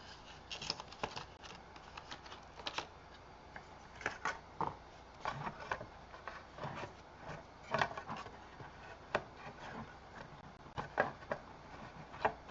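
Cardstock layers and a paper frame being handled on a tabletop: irregular light taps, clicks and paper rustles.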